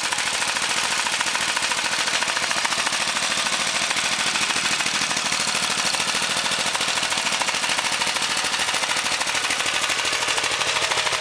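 Race-built Honda single-cylinder small engine, uncovered and ungoverned, running steadily with a rapid, even stream of exhaust pops. Its beat sounds like it has a mild performance cam in it.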